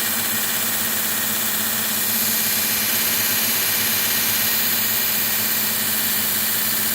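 Homemade 75x2000 belt grinder running steadily: its electric motor hums under a loud hiss of the abrasive belt, which grows a little brighter and louder from about two seconds in for a few seconds.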